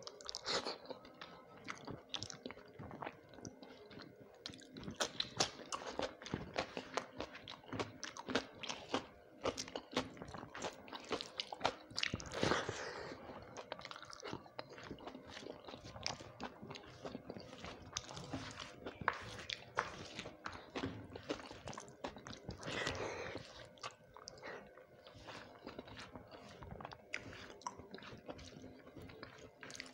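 Close-miked chewing and biting: a person eating rice with dalma and fried vegetables by hand, many short sharp clicks of the mouth in quick succession.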